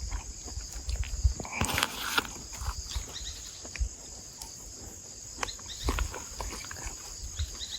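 A steady high-pitched insect chorus, with scattered low knocks and clicks and a brief noisy rustle about two seconds in.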